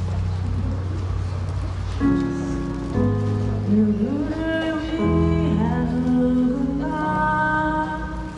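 Live band music: held bass notes and chords that change every second or so, with a melody line sliding up and down in pitch near the middle.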